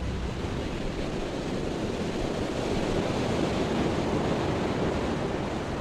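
Ocean surf washing steadily against the shore, a continuous rushing noise.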